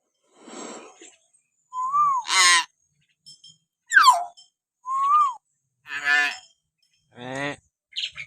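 Hill myna calling: clear whistles that rise and then fall, alternating with harsh, raspy croaks, and one quick falling whistle about four seconds in. There are about six calls, spaced roughly a second apart.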